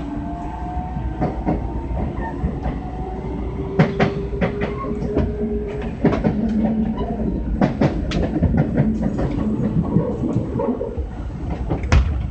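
Kintetsu 6820 series commuter train running, heard from inside the car: a steady rumble with a few faint steady tones. Wheels click over rail joints, most often in the middle stretch, with a sharp click near the end.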